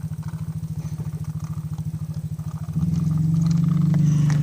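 A motor vehicle's engine running at a steady, rapid putter, then revving up and getting louder about three seconds in.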